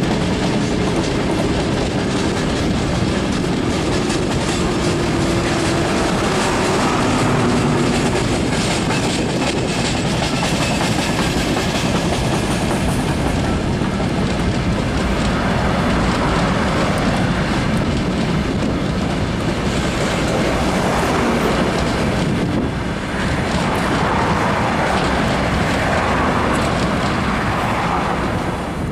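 Freight train passing at close range: a loud, continuous rumble with wheels clattering over the rail joints and a faint falling squeal near the start.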